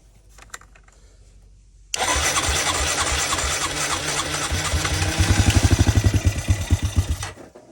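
2002 Honda Rancher ES's single-cylinder four-stroke engine cranked on the electric starter with gas poured into the intake, firing and catching in strong, even beats from about three seconds in, then cutting out suddenly: a good sign after 12 years of sitting.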